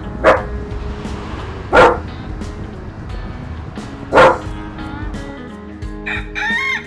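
A dog barking three times, well spaced, over background music.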